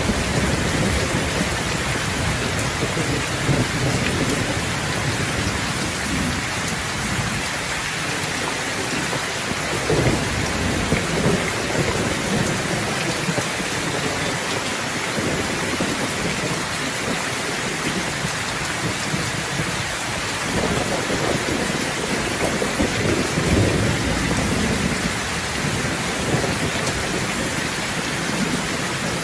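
Steady rain falling, with low rolls of thunder rumbling now and then through it.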